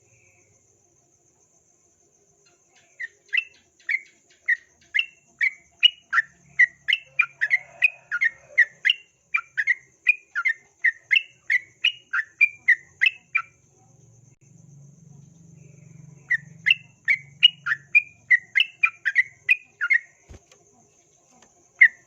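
Yellow-vented bulbul (trucukan) singing: a long run of quick, bright chirping notes, about two or three a second. After a short pause comes a second, shorter run.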